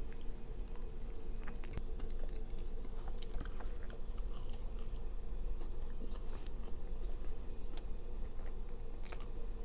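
A person chewing and biting food close to the microphone, with scattered small crunches and mouth clicks, over a steady low hum.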